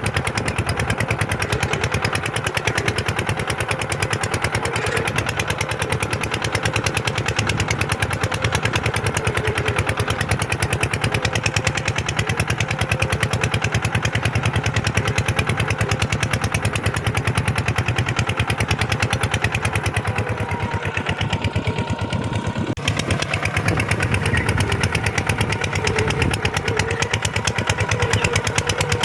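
Kubota tractor engine running steadily, a fast, even beat of firing strokes. The sound dips slightly for a couple of seconds near the end and is broken by a sharp click.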